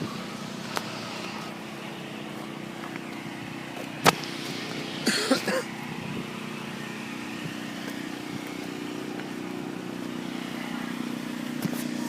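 An engine running steadily with a low hum. A sharp click comes about four seconds in, and a short hiss about a second after it.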